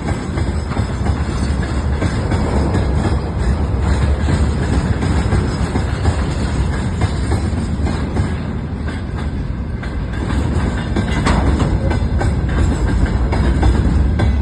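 A train passing close by on the rails: a steady heavy rumble of wheels on track with scattered clicks from the rail joints.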